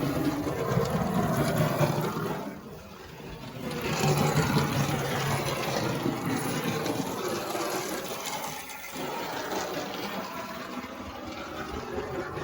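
Water running from a tap and splashing as something is rinsed under it. The flow drops away for about a second roughly two and a half seconds in, then runs again.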